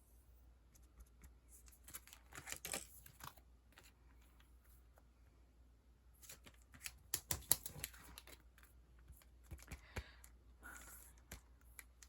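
Sticker sheets and their plastic packaging being handled, crinkling and clicking in three short bouts.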